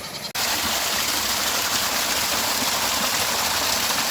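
Steady, loud rush of water in a heavy rainstorm, starting abruptly just after the start.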